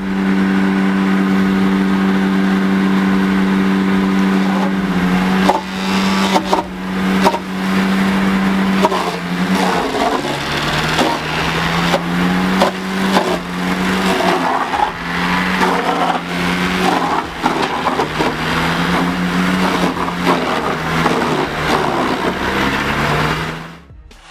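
Engine-driven wood chipper running at a steady speed, then crunching and cracking as wood is fed in from about five seconds on, its engine note dropping and wavering under the load.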